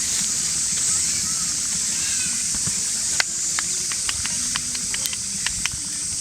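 Wood campfire crackling: a scatter of sharp, irregular pops in the second half, over a steady high hiss.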